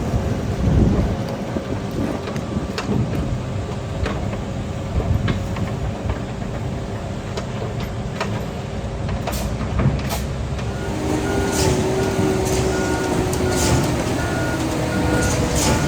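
Concrete mixer truck's engine running with a low steady rumble; about eleven seconds in its reversing beeper starts, a repeated single-pitched beep roughly every two-thirds of a second, as the truck backs up.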